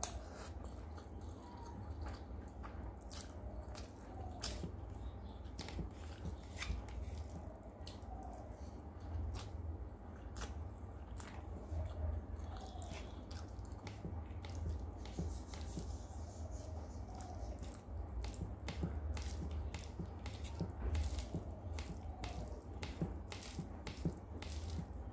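Close-up eating sounds: wet chewing, lip smacks and mouth clicks, about one or two a second, as soft rice and curry are eaten by hand, with fingers squishing rice on the plate. A low steady hum runs underneath.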